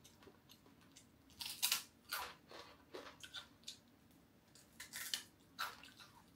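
Crispy deep-fried cá dứa catfish belly being bitten and chewed close to the microphone: a string of short, irregular crunches and crackles.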